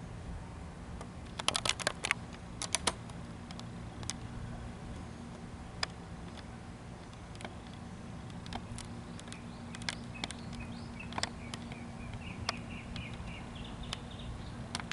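A cluster of sharp clicks, then scattered single clicks, over a steady low hum. Near the end comes a quick run of short high chirps that rise in pitch.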